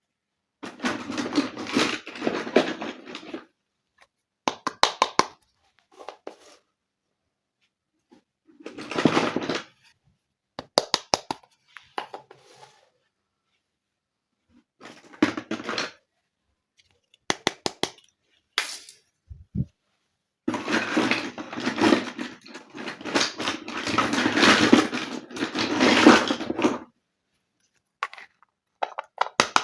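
Small plastic toy kitchen pieces being handled and unpacked: clusters of sharp clicks and taps alternate with longer stretches of rustling, in separate bursts with short silences between.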